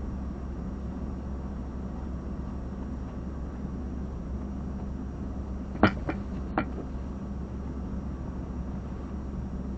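Steady low hum with hiss, broken by three sharp clicks within about a second, around six seconds in; the first click is the loudest.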